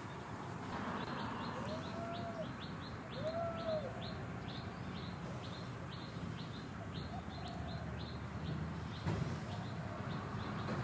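A bird chirping in a quick series of short high notes, about three or four a second, with two short rising-and-falling calls early on, over a steady low hum.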